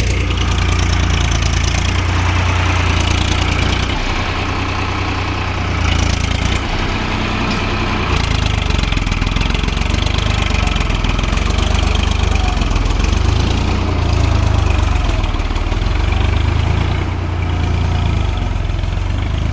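Tractor engine running steadily as the tractor is driven, a continuous low rumble that swells slightly now and then.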